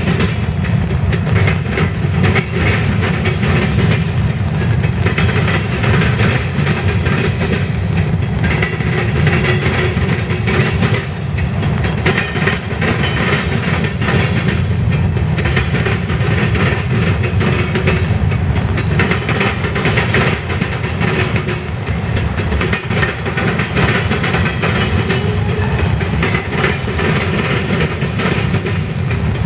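A loaded grain train's covered hopper cars rolling steadily past, their wheels clicking and clacking over the rail joints with a deep, continuous rumble.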